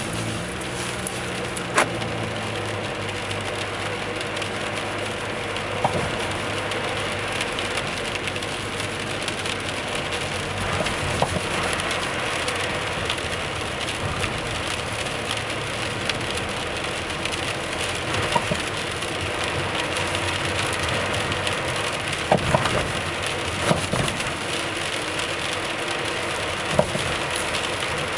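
Steady road noise from a Toyota Alphard Hybrid being driven, broken by occasional sharp knocks from its RS-R Best-i coilover suspension. The knocking is the sign of a loose upper top nut on the coilover.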